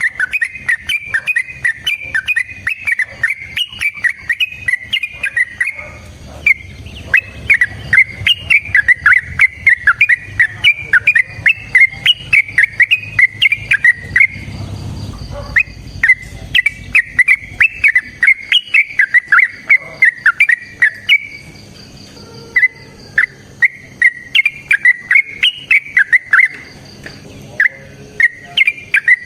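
Sooty-headed bulbul (trucuk) singing in long, fast runs of bubbly, whistled notes, the 'ropel panjang' full song used as a lure. The runs are broken by short pauses a few times.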